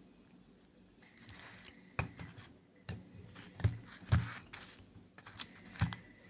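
White Reform gym chalk being crushed: about five sharp crunches with gritty crumbling and scraping between them, the loudest two in the middle.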